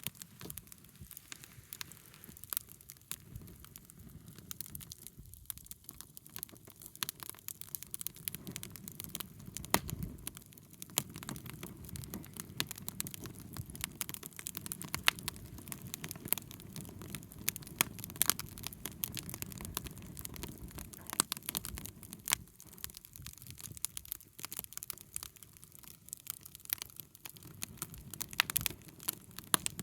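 Wood bonfire crackling, with frequent irregular sharp pops over a steady low rush of burning.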